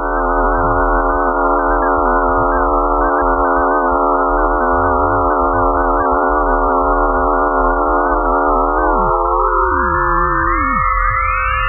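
Eerie electronic space drone of the kind presented as a planet's sound: a dense chord of steady, slightly wavering tones over a low hum. About nine seconds in, the lower tones slide downward and fade while others glide up into a higher chord, with one middle tone held throughout.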